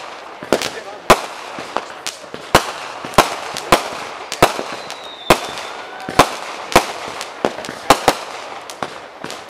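Consumer fireworks going off: a rapid, irregular run of sharp bangs, about two a second, over a steady hiss, with a faint whistle falling in pitch about five seconds in.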